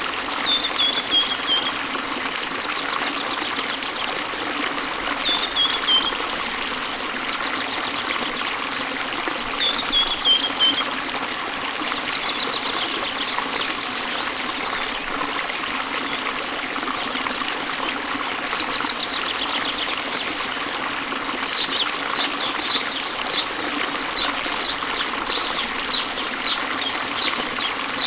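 Running water rushing steadily, with a bird singing over it: short falling whistled phrases a few times, then a run of quick chirps near the end.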